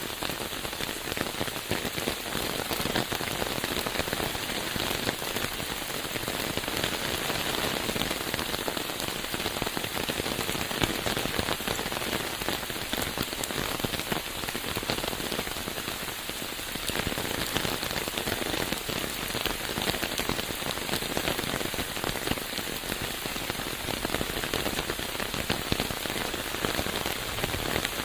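Steady rain falling, a dense hiss of many small drop impacts.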